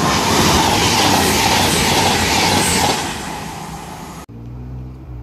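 Diesel passenger train passing the platform at speed: a loud rush of wheel and air noise with rail clatter that eases off after about three seconds. A little over four seconds in, an abrupt cut to a quieter, low steady engine hum from a distant train.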